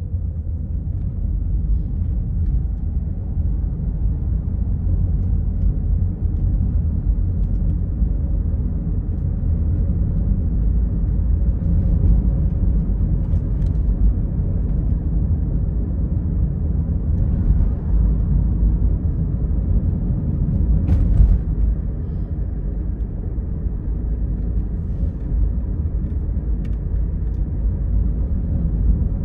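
A car driving, its steady low road and tyre rumble carrying on without a break, with a brief tick about two-thirds of the way through.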